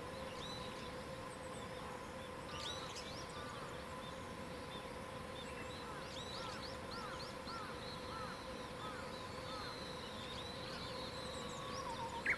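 Several wild birds singing and calling in a mountain forest, a mix of quick chirps and whistled glides. In the middle a series of short arched notes repeats about three times a second. A faint steady hum runs underneath.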